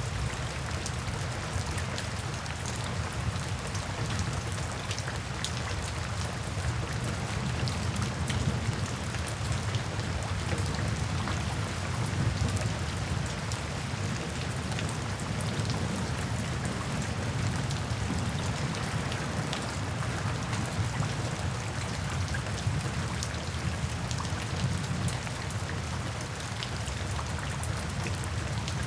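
Steady rain falling, a dense patter of drops over a low, continuous rumble.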